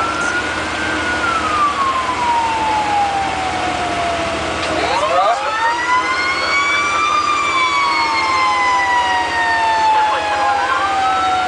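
Fire truck sirens wailing, each rising slowly in pitch and then falling. A second, overlapping siren wail comes in about five seconds in, over a low engine rumble.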